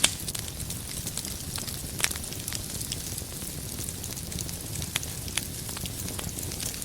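Wood fire burning in a fireplace: a steady low rumble and hiss with scattered sharp crackles and pops, a few louder ones at the start, about two seconds in and near the end.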